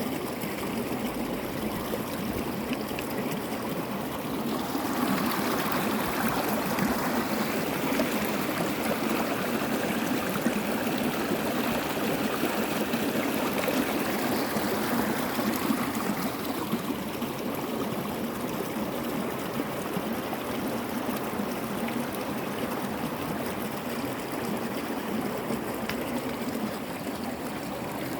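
Running water of a stream, a steady rush and trickle that swells a little louder about five seconds in and eases back after about sixteen seconds.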